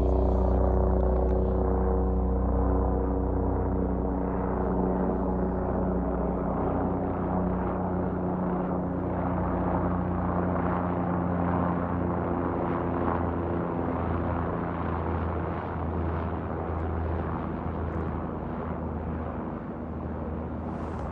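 Helicopter rotor and engine drone, steady and gradually growing fainter.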